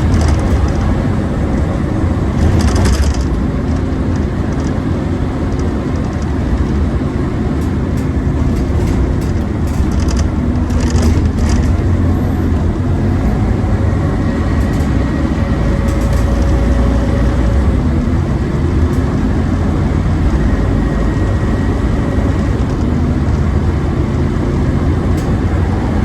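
Scania OmniCity double-decker bus running under way: a steady loud drone with a faint high whine over it, the 'hoover' noise that marks this bus as pretty loud, with scattered clicks and rattles.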